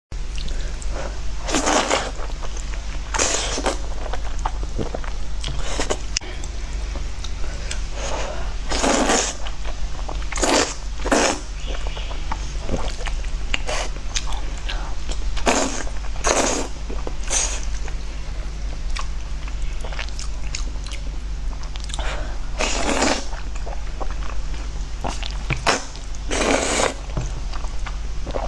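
Close-miked eating: irregular bites and chewing every second or two, over a steady low hum.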